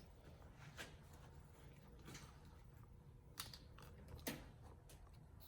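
Near silence: a low steady hum with four faint, short clicks spread through it, the last a little louder.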